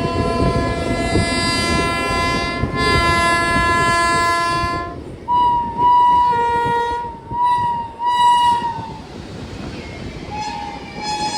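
Train horn sounding in a long blast, broken briefly about three seconds in, over the heavy rumble of a passing train. About five seconds in, a second, higher-pitched horn gives four short blasts, and a fainter short blast follows near the end.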